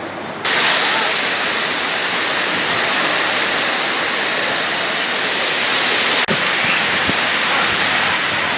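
Heavy rain pouring down onto a flooded street: a loud, even hiss that steps up suddenly about half a second in and drops out for an instant a little past six seconds.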